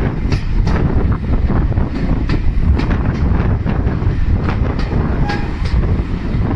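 Heritage railway carriage running along the line, heard from its open window: a steady low rumble of wheels on track with scattered sharp clicks and knocks from the running gear.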